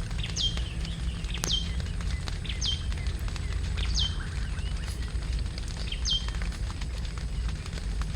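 A bird calling again and again, five sharp high whistles that each drop steeply in pitch and then hold briefly, about a second apart with one longer pause. Under it runs a steady low rumble.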